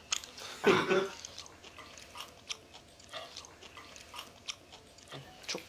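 Chewing and biting food, with scattered light clicks of chopsticks against plates and dishes. A brief voice sound comes just under a second in.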